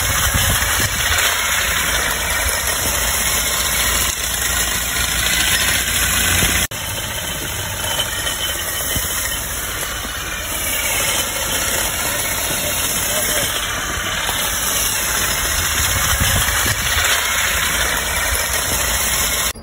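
An engine running steadily, with a sharp click and a brief dip about a third of the way in.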